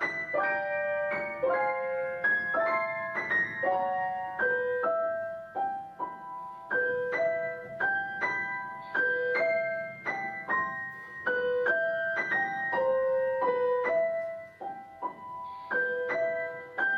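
Piano music: a gentle melody of single notes, several a second, with light chords underneath.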